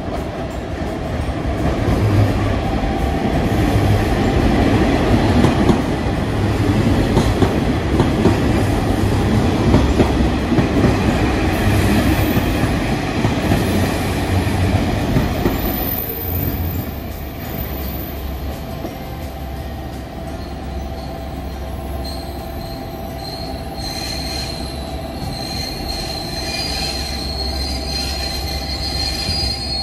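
Train running past on rails: a loud, dense rumble through the first half that eases about sixteen seconds in. Near the end a steady high-pitched wheel squeal comes in.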